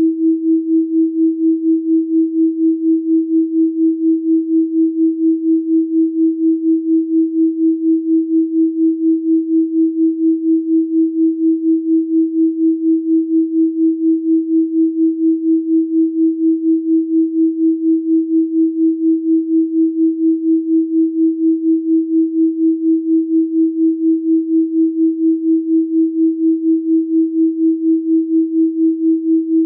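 A steady pure sine tone of 324 Hz, one unchanging pitch with no overtones, swelling and fading evenly in loudness several times a second.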